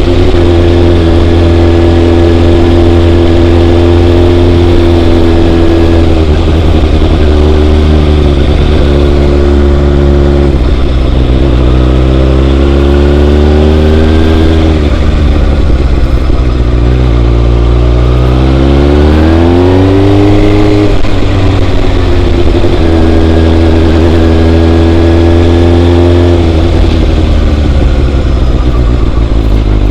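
Motorcycle engine running under way, its pitch holding steady, then dipping and climbing again several times as the rider eases off and accelerates. A strong low drone runs beneath it throughout.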